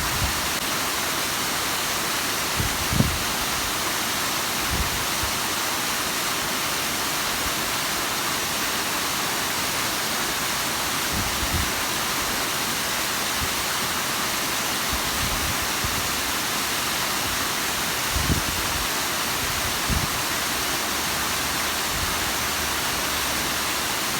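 Bigăr waterfall: water pouring down in a steady, even rush, with a few brief low thumps scattered through.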